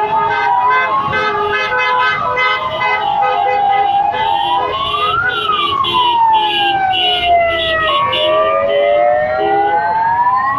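Several fire truck sirens sounding together, overlapping slow wails that rise and fall, with a rapid pulsing tone over them for most of the stretch.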